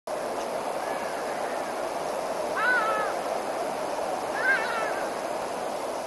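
A bird gives two short, arching calls about two seconds apart, the second a little after four seconds in, with a fainter call near the start. Under them runs a steady rushing background.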